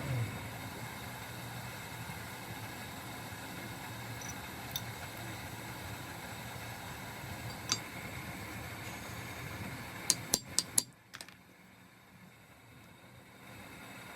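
Steady mechanical background hum with a few sharp metallic clicks, then a quick run of four clinks about ten seconds in, after which the hum drops away for a few seconds.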